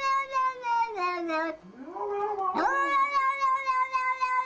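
A cat's long drawn-out meows: one held call falls in pitch and ends about a second and a half in, and another rises and holds steady to the end.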